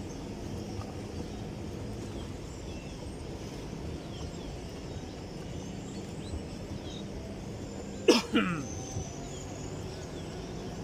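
Steady low hum of boat engines at a river jetty, with a short, loud vocal sound from a person about eight seconds in.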